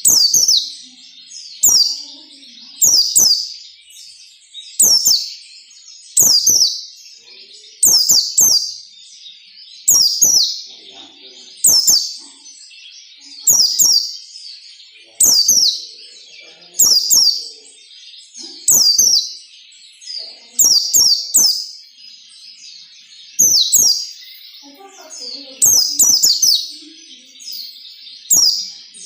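Pleci (white-eye, Zosterops) singing loud, sharp, high-pitched 'nembak' phrases. Each phrase is a quick run of falling notes, repeated about every two seconds.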